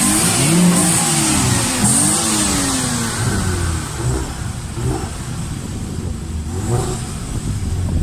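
A modified car's engine and exhaust revving as the car accelerates away: the engine note climbs and drops twice in the first few seconds, then settles into a lower, steadier drone.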